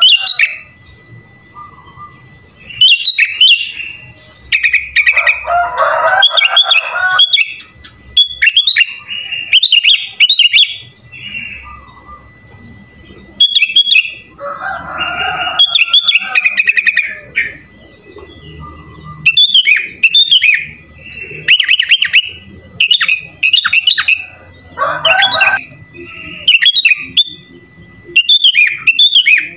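Sooty-headed bulbul (kutilang) singing non-stop in quick, short chirping phrases, one after another. A few times a lower, rapid warbling phrase is mixed in.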